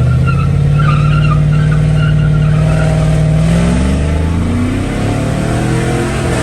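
Chevrolet Silverado's LS V8 under hard acceleration, its revs climbing steadily and then faster, with a wavering tire squeal in the first couple of seconds as the nearly bald tires break loose.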